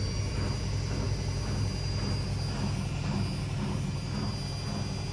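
Zanussi ZWC 1301 3 kg washing machine spinning: a steady low motor and drum hum with a faint high whine above it.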